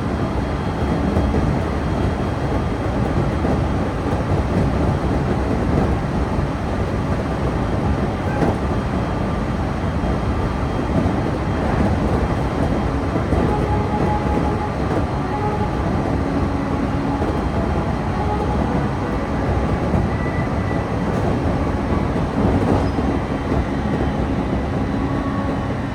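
Electric local train running along the line, heard from inside the carriage: a steady rumble of wheels on rail, with faint humming tones coming and going.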